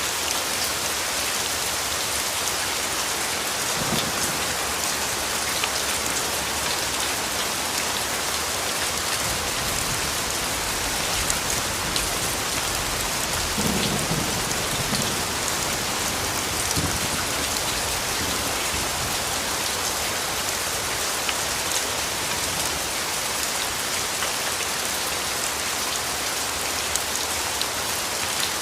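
Steady rain falling on leaves and ground, with scattered drop ticks. A soft low rumble of distant thunder comes about halfway through, with a fainter one earlier.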